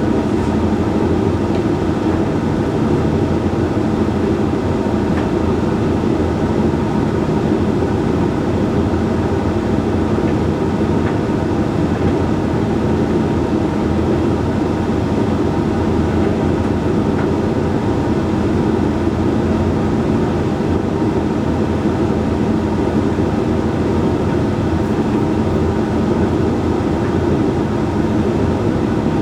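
Hoover Link X Care HLX C10DRGR condenser tumble dryer running a Whites drying cycle: a steady mechanical hum from the turning drum and fan.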